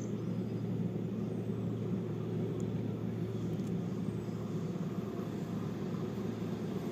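Approaching train heard from the station platform: a steady low rumble with a constant hum underneath.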